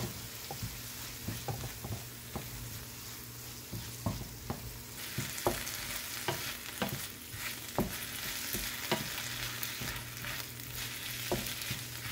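Wooden spoon stirring diced tomato and green bell pepper frying in oil in a nonstick skillet, with irregular light knocks and scrapes of the spoon on the pan over a steady sizzle. The sizzle grows louder about five seconds in.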